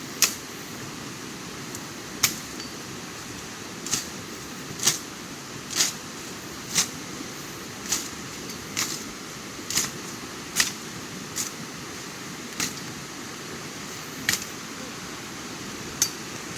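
Repeated sharp knocks or strikes, roughly one a second and unevenly spaced, over a steady hiss of noise.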